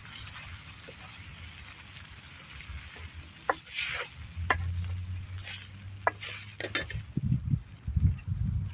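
Meat frying in a pan over a campfire with a faint sizzle, as a metal utensil stirs it and clicks sharply against the pan several times. Low thuds near the end are the loudest part.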